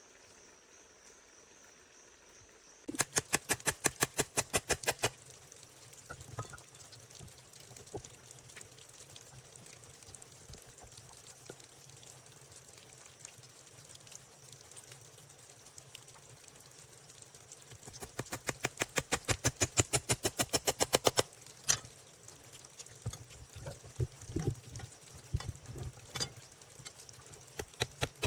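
Two runs of rapid, evenly spaced knocks, about ten a second. The first lasts about two seconds, and the second, about fifteen seconds later, lasts about three. Scattered single knocks fall in between.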